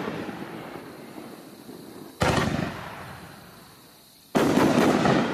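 A Raccoon Fireworks 'Uncle Sam' 500 g consumer cake firing aerial shots. The first burst is still fading at the start, a sharp bang about two seconds in dies away, and near the end comes a loud cluster of several quick bangs.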